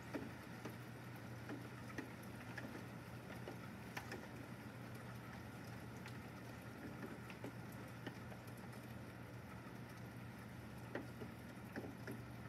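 Steady rain falling, with single drops tapping irregularly close by, several a second. A low steady hum runs underneath.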